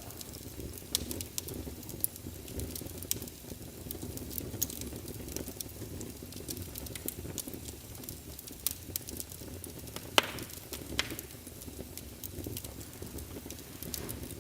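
Wood logs burning in a fireplace: a steady low rumble of flames with scattered sharp crackles and pops. The loudest pop comes about ten seconds in, followed by another about a second later.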